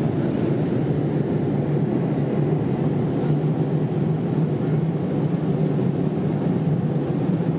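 Steady cabin noise of a Boeing 787-8 airliner in flight: an even, low rush of engines and airflow heard from inside the cabin, with a constant low hum.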